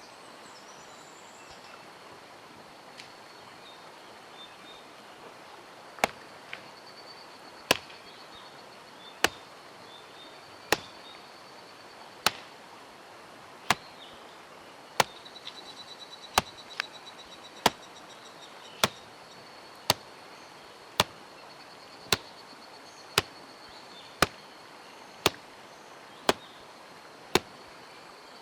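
Hand axe chopping wood: sharp single strikes, starting about six seconds in and coming about once a second, a little faster toward the end.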